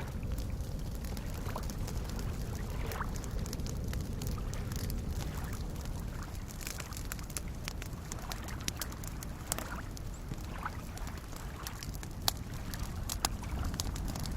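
Soft lake waves lapping steadily, mixed with a crackling campfire giving scattered sharp pops, which come more often near the end.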